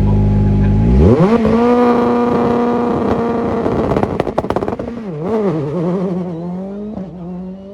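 Rally car engine held at steady revs on the start line, then launching about a second in: the revs jump and hold high, a rapid run of pops comes around four seconds in, then the revs dip and waver through a gear change as the car pulls away and fades.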